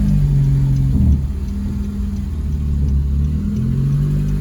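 2012 Honda Civic Si's 2.4-litre four-cylinder engine running as the car is driven slowly. Its note changes and drops in pitch about a second in, then holds steady.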